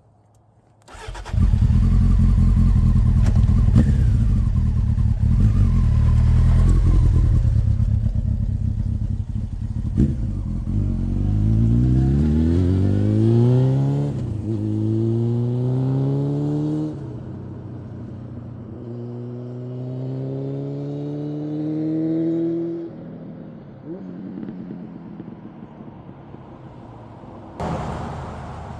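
1996 Honda CBR900RR inline-four sport bike engine running loud and close, then accelerating away through the gears: the pitch climbs with each gear and drops at each shift, about four times, fading as the bike moves off.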